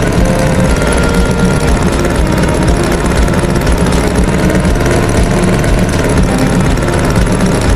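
Loud engine running steadily.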